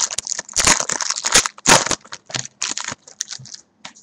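Trading-card pack wrappers crinkling and cards being handled: a quick run of crinkles and crackles that thins out after about two seconds.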